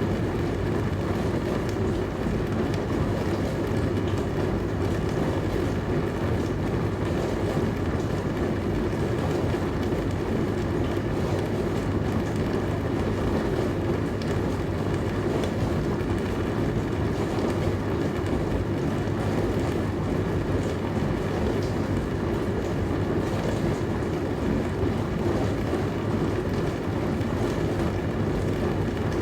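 Dishwasher running: a steady, unchanging low hum with rushing noise over it.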